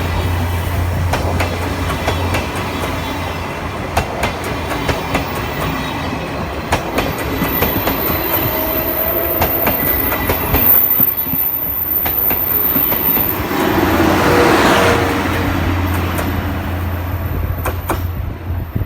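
C57 180 steam-hauled passenger train rolling past, its wheels clicking over the rail joints over a steady rumble.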